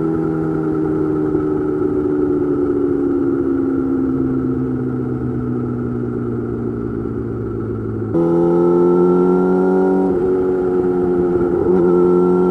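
Yamaha YZF-R6 inline-four sport bike through an M4 GP slip-on exhaust, its engine note sinking slowly as the bike rolls off the throttle. About eight seconds in the throttle opens, the note jumps louder and climbs, with brief breaks in it near the end.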